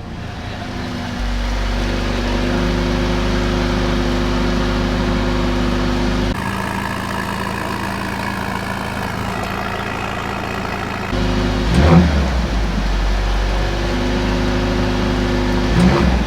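Mercedes-AMG CLA 45 S's turbocharged 2.0-litre four-cylinder idling steadily in Sport Plus mode, a low even note. The tone changes abruptly a few times, and there are a couple of short sharp sounds near the end.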